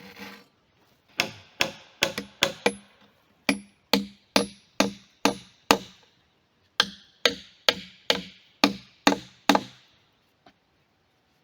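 Hammering: two runs of sharp blows, about two or three a second, with a short pause between them.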